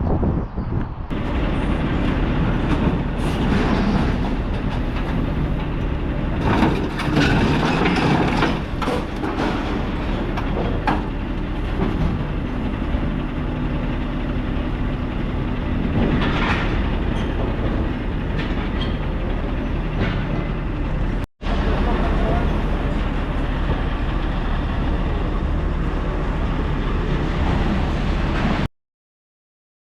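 Scania lorry engine running steadily on the road under load. The rumble breaks off briefly about two-thirds of the way through and stops shortly before the end.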